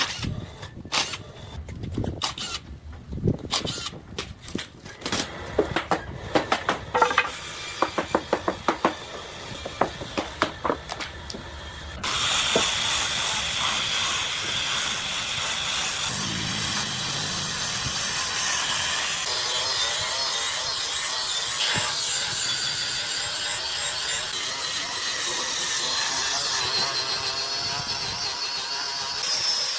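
Workshop sounds: about twelve seconds of irregular knocks and taps, coming faster toward the end, then a steady power-tool hiss with a high whine that starts suddenly.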